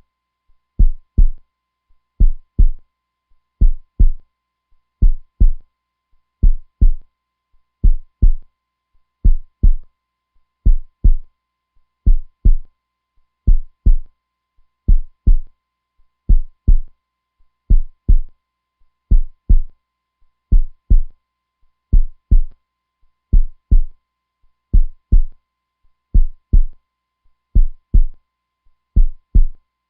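Heartbeat sound: strong, steady double beats (lub-dub), one pair about every second and a half, deep and thumping low down.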